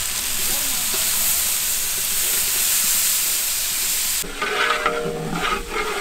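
Frying masala of onion, tomato, ginger-garlic and freshly added yogurt, sizzling steadily in hot oil in a cooking pot as it is stirred. The sizzle cuts off abruptly about four seconds in.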